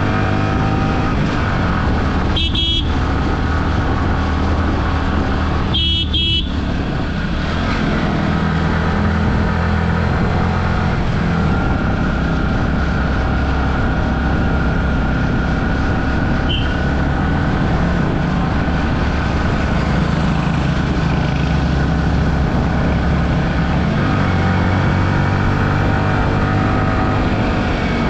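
Motorcycle ride on a road: the Yamaha R15 V3's 155 cc single-cylinder engine drones steadily. A vehicle horn honks once about two and a half seconds in, then twice in quick succession about six seconds in.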